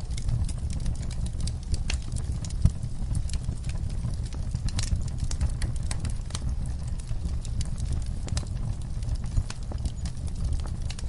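Campfire crackling: irregular sharp pops and snaps over a steady low rumble, with one louder pop a little under three seconds in.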